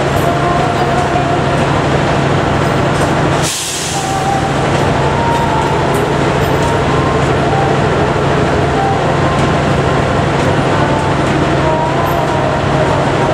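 A CC206 diesel locomotive idling close by with a steady low hum, while passenger coaches roll past on a farther track with rumbling wheel noise and faint squeals. A brief hiss comes about three and a half seconds in.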